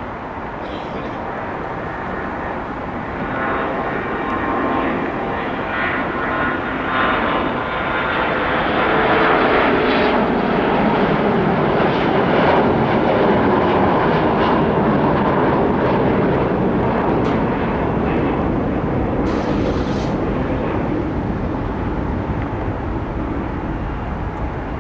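Airbus A321-200 jet airliner passing on its arrival, its engine whine and rumble building over several seconds to a peak near the middle, then easing off into a broad rumble.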